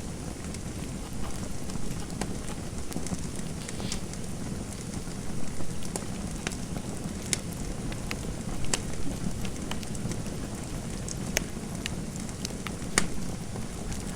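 Fireplace fire crackling: a steady low rumble of burning with irregular sharp pops and snaps, one louder pop near the end.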